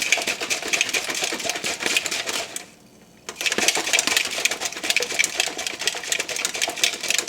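Protein shake being mixed in a shaker bottle: a fast, dense rattle that stops for about half a second just under three seconds in, then starts again.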